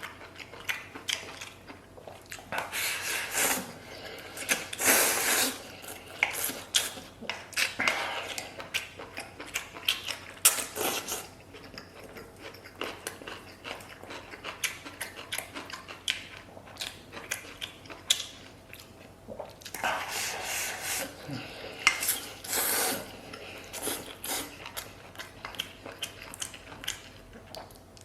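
Close-up eating of spicy beef tripe and omasum: rapid crunchy clicks of chewing, with several louder noisy stretches of mouthfuls being taken in.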